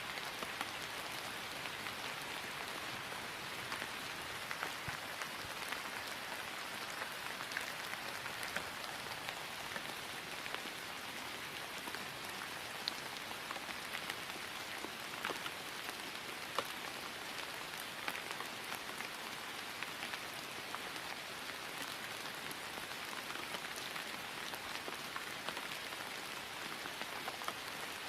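Steady rain falling on grass, an even hiss with many small drop ticks scattered through it.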